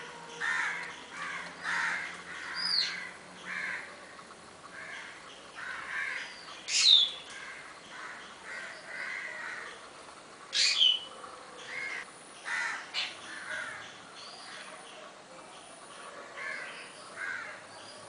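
Birds calling: short calls repeated every second or so, and a few sharp whistles sweeping down in pitch, the loudest about seven and eleven seconds in.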